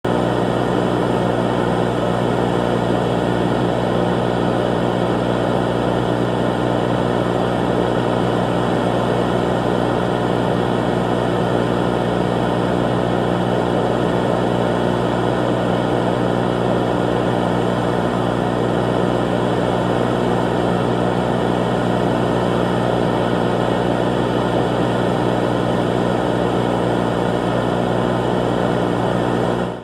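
A loud, unchanging droning buzz with hiss, several steady hum tones layered over noise, cutting off abruptly at the end.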